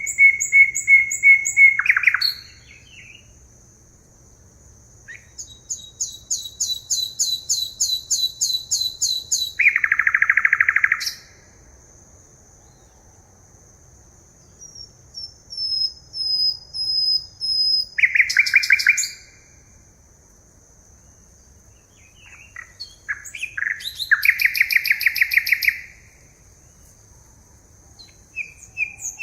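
Forest birds singing: several bouts of rapid, repeated high chirps, each lasting two to four seconds, with short quieter gaps between them. A thin steady high tone runs underneath through much of the stretch.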